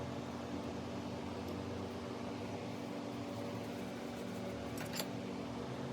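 Steady mechanical hum, like a fan running, with one light click about five seconds in.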